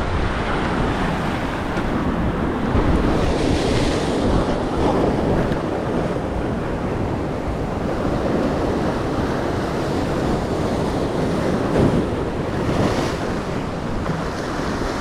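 Surf washing against jetty rocks, swelling and easing in surges, with wind rumbling on the microphone.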